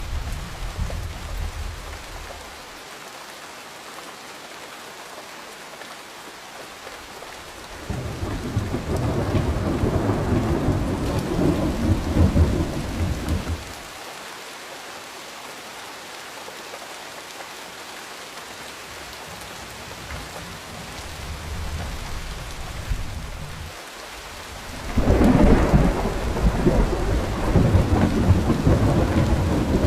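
Steady rain falling, with rolls of thunder. One rumble fades out in the first couple of seconds, a loud roll comes in about eight seconds in and lasts some five seconds, and after a softer swell a strong roll breaks in sharply near the end and keeps rumbling.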